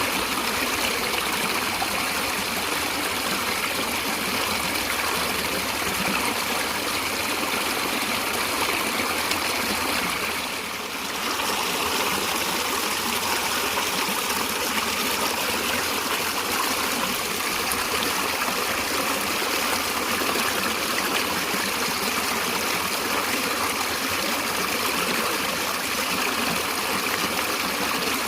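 Natural stream water running, a steady rushing and trickling that dips briefly about a third of the way through.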